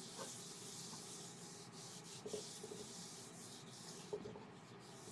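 Cloth rubbing Danish oil onto a laburnum wood bowl: a soft, steady hiss with a few faint light knocks.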